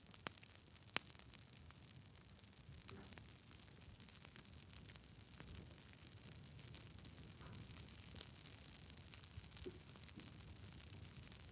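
Campfire burning faintly with a soft hiss and scattered crackles and pops, the sharpest pop about a second in.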